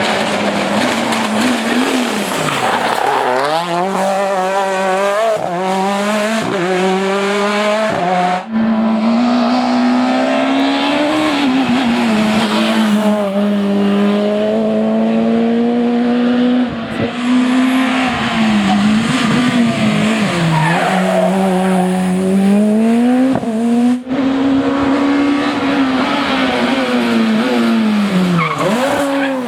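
Super 2000 rally cars' high-revving, naturally aspirated two-litre four-cylinder engines at full throttle, the pitch climbing and dropping sharply again and again as the cars shift gear and lift for corners. The sound breaks off and changes abruptly twice, as one car gives way to another.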